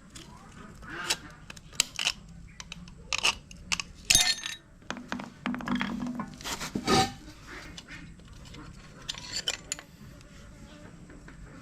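Irregular metallic clinks and knocks of engine parts and hand tools being handled, some with a short ring, the loudest around four and seven seconds in.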